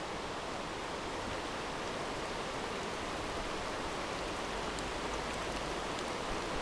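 Steady hiss of heavy rain falling on a creek and its surface water.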